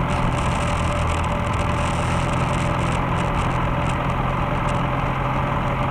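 Ishii Mk-4 race car's engine idling steadily at a constant pitch.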